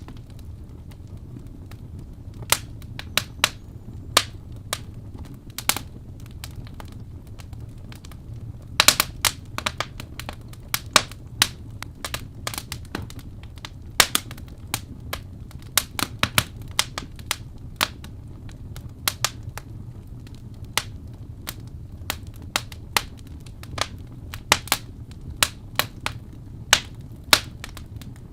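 Wood fire in a fireplace crackling: irregular sharp pops and snaps, sometimes in quick clusters, over a steady low rumble.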